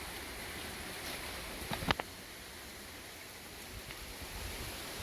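Steady hiss of a waterfall running at low flow, with wind rumbling on the microphone. A quick run of three or four sharp knocks comes just before two seconds in.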